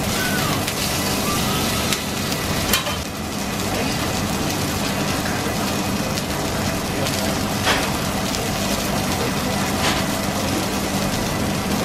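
Beef burger patties with bacon and onions sizzling on a hot flat-top griddle, a steady hiss over a low hum, with two sharp metal clicks about three and eight seconds in.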